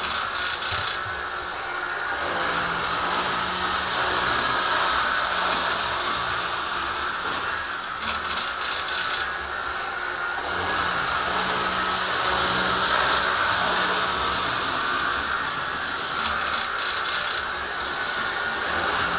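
Model train and slot cars running on the layout: a steady electric whir of small motors and wheels on track, with a low hum that comes and goes.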